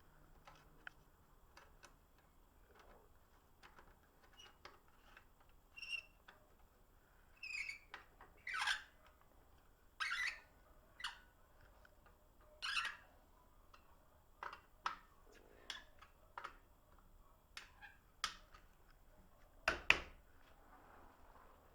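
Faint, scattered clicks and knocks, a dozen or so short ones, a few with a brief squeak, the loudest a double knock near the end: handling sounds while finishing fitting a motorcycle exhaust.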